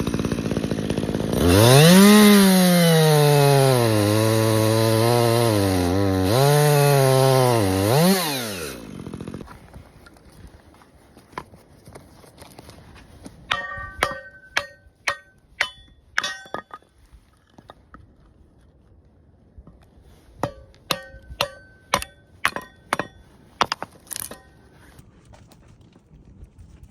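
A two-stroke chainsaw cutting firewood, its engine pitch dropping and wavering under load, stops about nine seconds in. Later come two runs of sharp knocks with a short ring.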